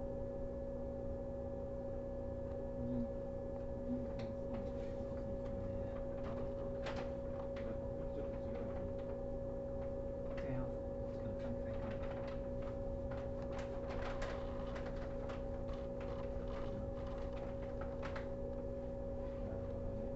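Steady hum inside a JR 115 series electric train car, holding two unchanging tones, with scattered faint clicks and ticks through the middle.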